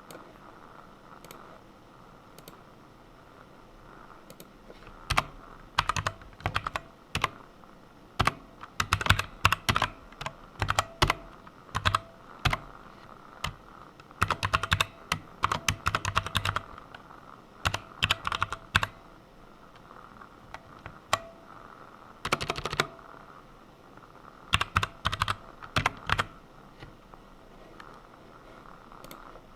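Typing on a computer keyboard in irregular bursts of keystrokes with short pauses between them, starting about five seconds in and stopping a couple of seconds before the end.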